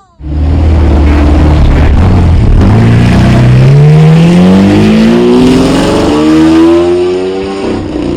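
Car engine running very loud: a low, steady note that starts abruptly, then a long, steady rise in pitch for about five seconds as it accelerates hard, easing off near the end.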